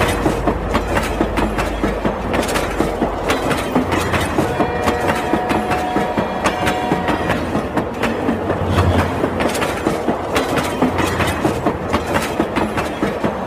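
Battery-powered toy train running along a wooden plank, its motor and wheels giving a steady rapid clatter of about four clicks a second.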